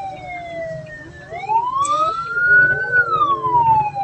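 Hearse's electronic siren on a slow wail, its pitch falling, rising over about a second and a half, then falling again, over a steady low vehicle rumble.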